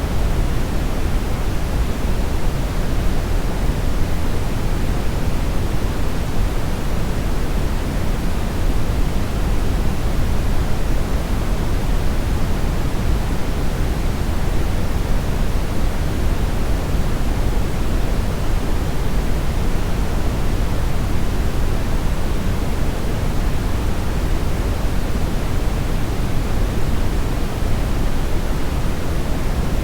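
Steady synthetic brownish noise: an even, unchanging rush weighted toward the low end, with no tones or events.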